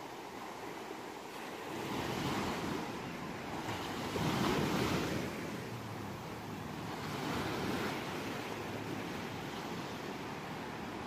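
Ocean waves breaking and washing onto a shore, surging three times, the loudest about four and a half seconds in.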